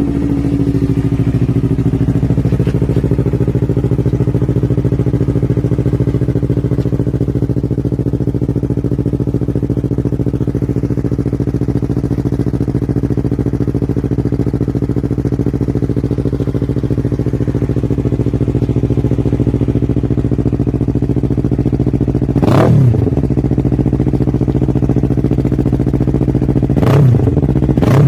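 Yamaha MT-03's parallel-twin engine idling steadily through an Akrapovic full exhaust system, just after start-up. Near the end the throttle is blipped twice, each rev rising and falling quickly.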